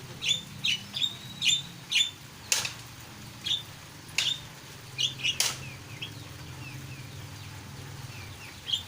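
A jalak (Indonesian starling) calling busily: short, clear, downward-sweeping notes repeated about twice a second at first, then sparser, with softer quick chirps later on. Two louder sharp sounds cut in, about two and a half seconds in and again midway.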